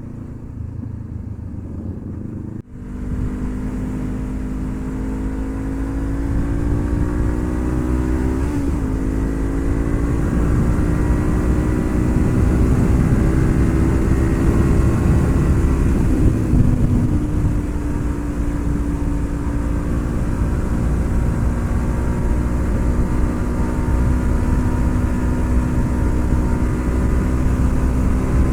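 Honda CB500F's parallel-twin engine under way, starting suddenly about three seconds in and climbing slowly in pitch as the bike gathers speed. The pitch wavers once about a third of the way in and dips slightly a little past halfway, as with up-shifts, then holds fairly steady.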